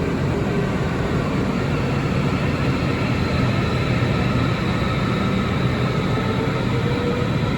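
A train running through the station: a steady rumble with a faint whine of several steady tones above it.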